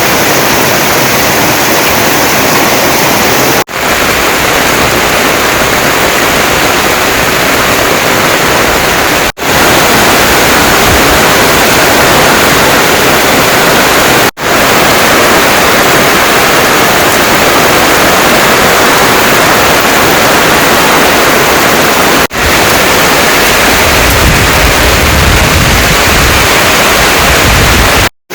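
Heavy rain pouring steadily, a loud even hiss, broken by brief dropouts several times.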